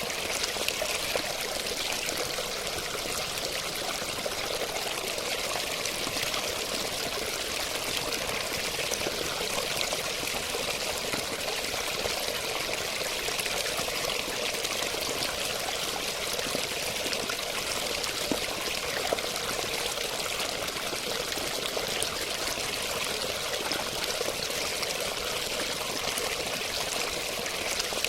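Running water, a steady, unbroken rush with a little splashing texture and no changes.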